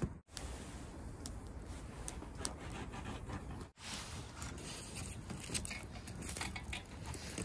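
Oak firewood burning, with scattered sharp crackles and pops over a steady background hiss; the sound cuts out briefly twice.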